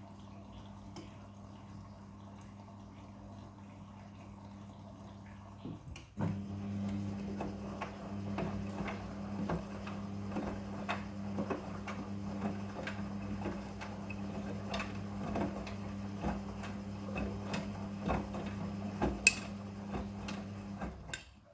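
Midea front-loading washing machine running a quick-wash cycle with a blanket: a steady motor hum, which about six seconds in grows louder as the drum turns. Water sloshes and there are many small knocks and clicks; the sound cuts off just before the end.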